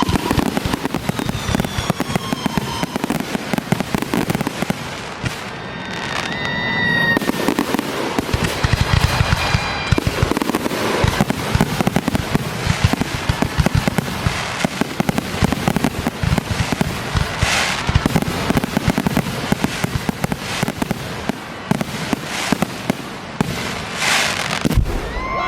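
Fireworks display going off continuously: a dense run of bangs and crackling, with a few whistles, one of them about six seconds in.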